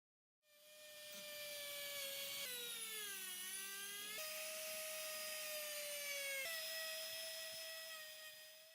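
High-speed electric power tool whining at a steady pitch. For a second or two its pitch sags as it is loaded against the work, then it speeds back up. The sound jumps at a few abrupt cuts.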